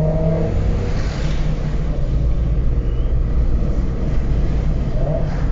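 Car with a decat exhaust (catalytic converter removed) running, a loud, steady deep rumble; a humming engine note fades out about half a second in.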